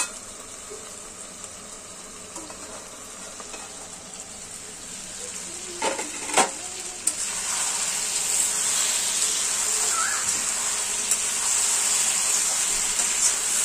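Chicken pieces sizzling in hot oil in a kadai, cooked down in their own oil. Two sharp metal clinks come about six seconds in, and after that the sizzling grows louder as the uncovered chicken is stirred with a metal ladle.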